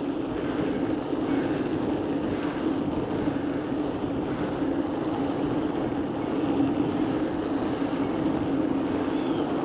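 Steady noise of riding a bicycle on a road: tyres rolling and air rushing past the microphone, with a steady hum.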